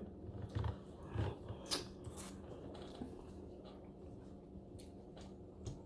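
Faint eating sounds from a seafood boil: chewing and biting, with a few short wet clicks and smacks in the first couple of seconds, then quieter chewing over a low steady hum.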